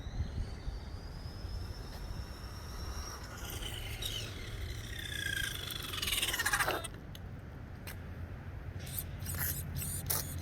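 Electric RC truck's motor whining as it runs, rising in pitch for about three seconds, then dropping steeply as the truck slows about four to seven seconds in. A few sharp clicks come near the end.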